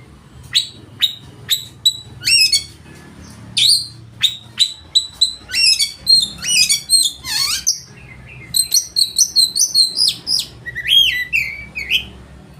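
Oriental magpie-robin (kacer) singing loudly in full song: a varied run of sharp, downward-sweeping whistles, quick chattering notes and a buzzy trill, delivered in phrases with brief pauses.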